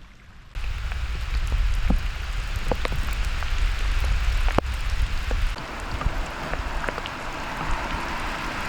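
Heavy thunderstorm rain coming down hard, with many sharp drop impacts clicking on nearby surfaces. It starts abruptly about half a second in, under a deep low rumble that drops away about five and a half seconds in.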